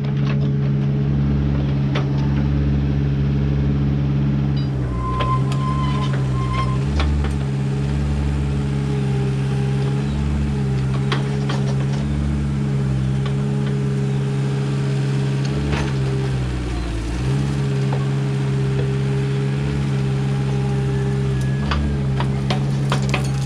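Backhoe engine running steadily while digging, its pitch dipping briefly about five seconds in and again about seventeen seconds in, with scattered short knocks.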